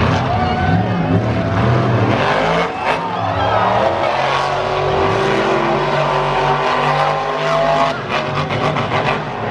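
Big monster truck engines running hard and revving, their pitch rising and falling as the throttle opens and closes.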